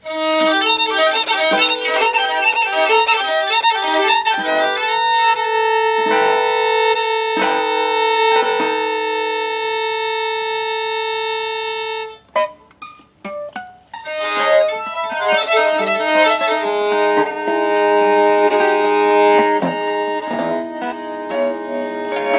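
Violin playing free improvisation. It opens with a fast repeated figure of short notes, then moves to long held bowed tones. About twelve seconds in there is a brief break with a few scattered clicks, and then it resumes with several overlapping notes.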